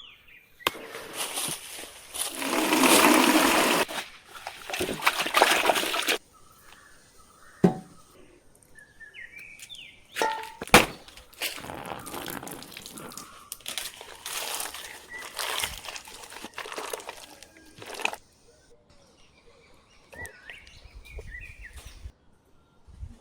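Water being poured and splashing in several bursts, the heaviest a few seconds in, with a few sharp knocks in between.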